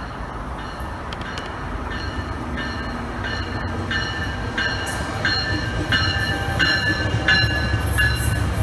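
Tri-Rail commuter train pulling into the station, its low rumble growing louder as the bilevel coaches pass. From about two seconds in, a bell rings about twice a second.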